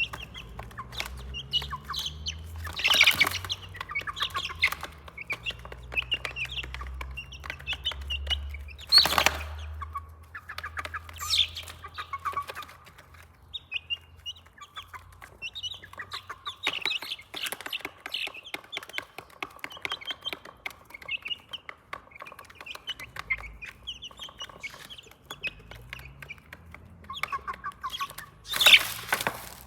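Domestic chicks peeping in many rapid short chirps, with some clucking among them. Three louder, sharper sounds stand out: about three seconds in, about nine seconds in, and near the end.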